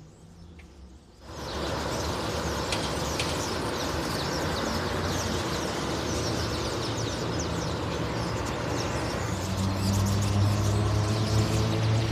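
Many small nest-weaving birds chirping and chattering in quick short calls over a steady wash of background noise that comes in about a second in. A low engine hum, like a vehicle running, grows louder near the end.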